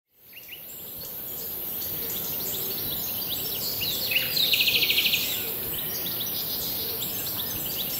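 Birds chirping and calling over a steady high hiss, fading in at the start, with a loud rapid trill about four seconds in.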